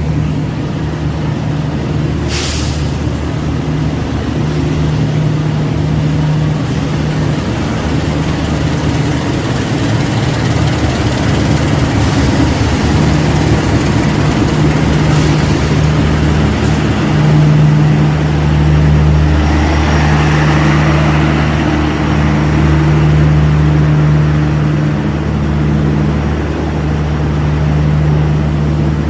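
Diesel engine of a train at a station platform running steadily with a deep, even hum, with a short hiss of air about two seconds in and another around fifteen seconds.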